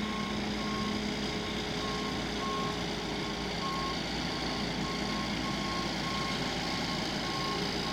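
Inside a pickup truck's cabin: steady engine and road noise with a high electronic beep repeating roughly once a second.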